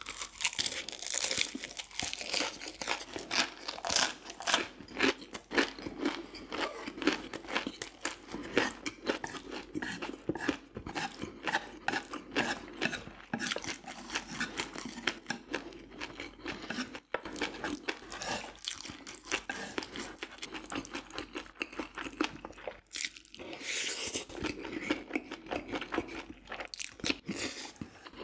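Close-miked chewing and crunching of food in the mouth, a dense, irregular run of crisp bites and chews.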